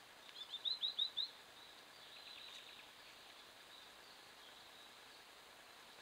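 A bird calling: a quick run of about seven short rising notes lasting about a second, then a fainter run of short notes about two seconds in, over the steady hiss of a trail camera's microphone.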